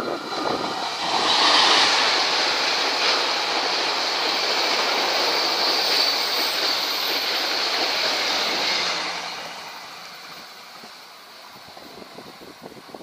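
Diesel-hauled passenger train passing close by: a loud rush of wheels on rail that builds about a second in as the carriages go past, then fades from about nine seconds as the train draws away.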